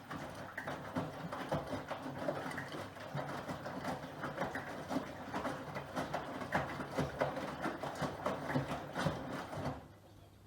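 Miele Professional PW6065 Plus washing machine drum turning, the wet load tumbling inside with a rapid, irregular clatter and slosh that stops abruptly near the end as the drum pauses. A steady low hum runs underneath.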